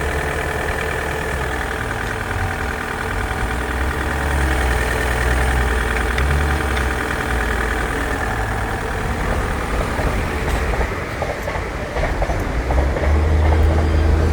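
Toyota 2.0 D-4D (1CD-FTV) four-cylinder common-rail turbodiesel idling steadily, dipping briefly about twelve seconds in.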